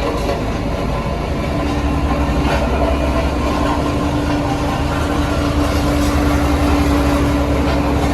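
Heavy diesel construction machinery running steadily with a low rumble. A steady whine joins about a second and a half in.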